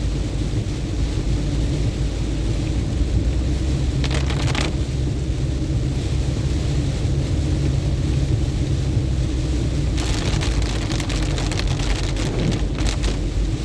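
Car driving on a rain-soaked road: steady low road rumble, with bursts of hissing tyre spray about four seconds in and again from about ten seconds until near the end.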